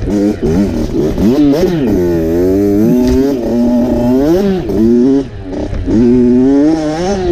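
Dirt bike engine being ridden, its pitch repeatedly climbing and falling as the throttle is opened and closed, with a brief drop off the throttle about five seconds in.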